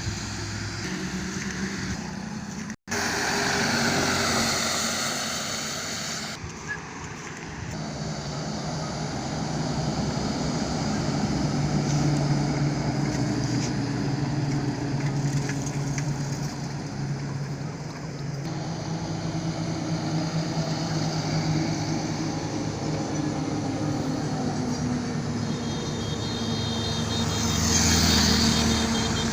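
Highway traffic: heavy vehicles running past with a steady engine drone and tyre noise. The sound cuts out for an instant about three seconds in, and a vehicle passes close and loud near the end.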